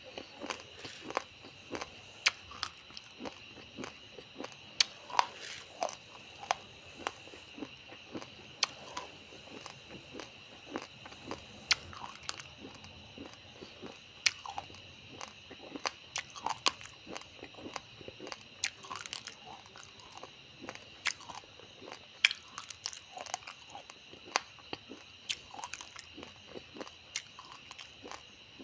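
Raw uncooked rice grains being chewed, a run of sharp irregular crunches, a few a second, as the hard grains crack between the teeth.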